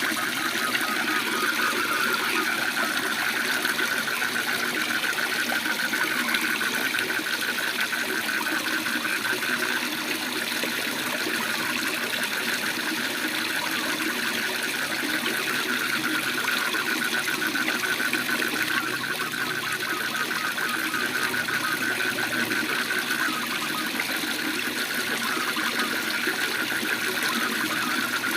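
Waterfall rushing steadily, with frogs giving a rapid, continuous pulsing trill over it.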